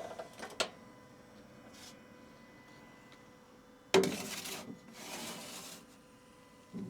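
Food being handled while sandwiches are assembled: a few light clicks at the start, then a sharp knock about four seconds in followed by brief scraping, and another short scrape a second later.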